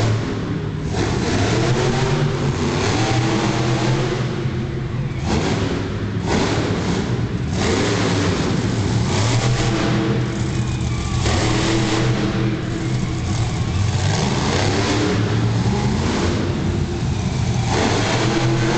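Monster truck engine revving hard again and again, its pitch climbing and dropping as the throttle is worked.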